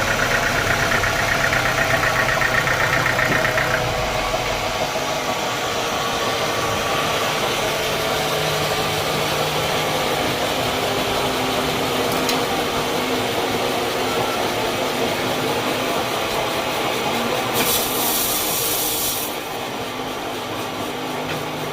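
Sawmill machinery running steadily. An engine drone drops away about four seconds in, and a short burst of hiss comes near the end.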